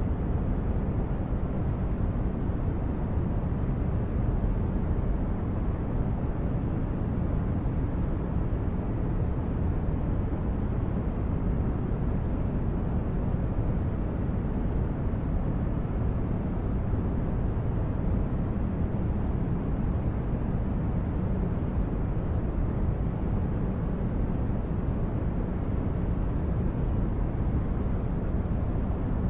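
Synthesized sci-fi spaceship interior ambience: a steady, deep rumbling noise like brown noise, unchanging throughout.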